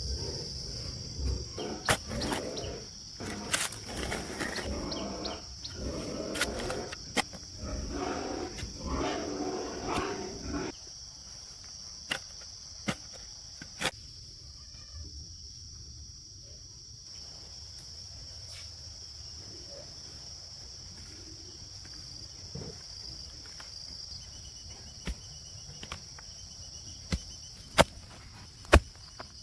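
Crickets and other insects trilling as a steady high drone. Irregular lower-pitched sounds fill the first ten seconds, followed by a few sharp knocks spaced apart, the loudest near the end.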